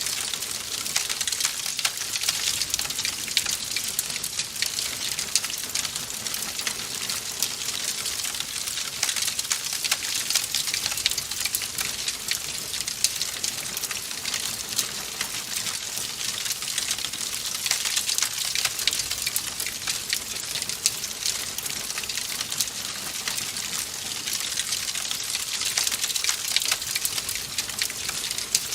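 Wood fire crackling in a fireplace: a steady hiss dense with small pops and snaps throughout.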